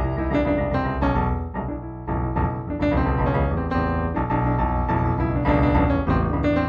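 Background piano music: improvised solo piano, the notes struck one after another with chords ringing under them.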